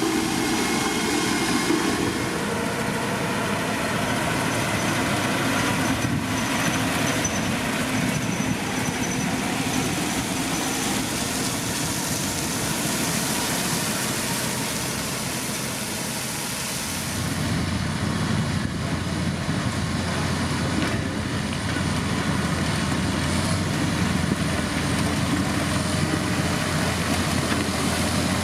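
Heavy diesel road-building machinery running steadily. A deeper low rumble comes in about seventeen seconds in.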